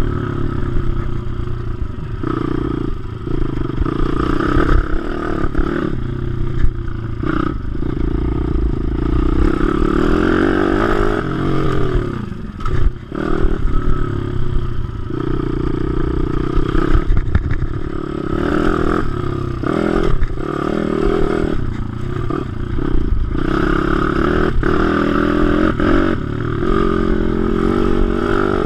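WPB 155 pit bike's single-cylinder four-stroke engine run hard around a track, revving up and falling back again and again through the gear changes, with a brief drop in revs about twelve seconds in.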